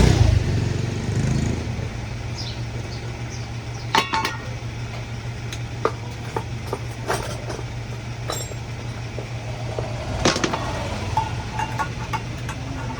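Scattered sharp metallic clinks and taps of small tools or parts being handled, over a steady low hum. A vehicle passes at the start, fading within the first second or two.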